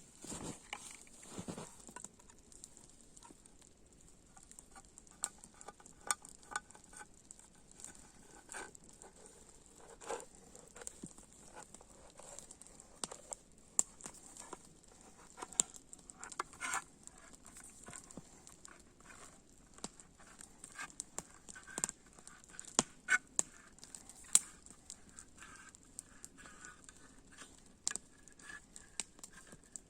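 Irregular light clicks and taps, scattered and uneven, over a faint steady hiss.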